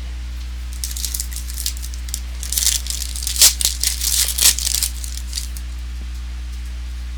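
Trading-card pack wrappers and cards being handled: a burst of crinkling and rustling about a second in, peaking near the middle and stopping after about five seconds, over a steady low electrical hum.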